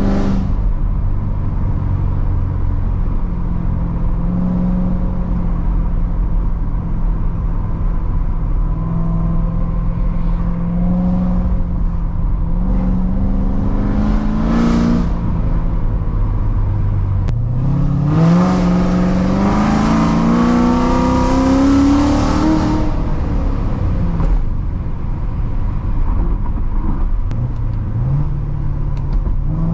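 Straight-piped 2016 Corvette C7 Z06 with its supercharged 6.2-litre V8, long-tube headers and X-pipe, cruising with a steady exhaust note. There are two short blips of throttle near the middle. About two-thirds in comes a hard pull of several seconds whose pitch climbs steadily, then the driver lifts off and it settles back to cruise.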